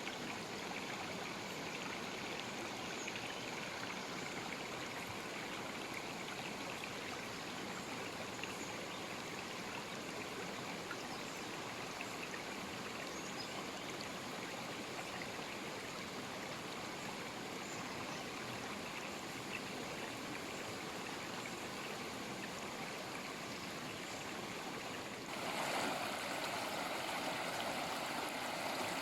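River water flowing in a steady rush. About 25 seconds in it turns suddenly louder and brighter, as a livelier stretch of the river takes over.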